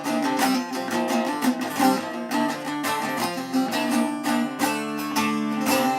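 Instrumental music with no singing: a plucked string instrument playing a quick run of notes.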